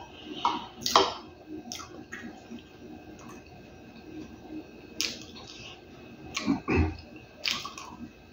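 Close-miked eating: wet chewing of a mouthful of rice, beans and beef, broken by several sharp lip smacks, with a louder low mouth sound about six and a half seconds in and fingers sucked clean near the end.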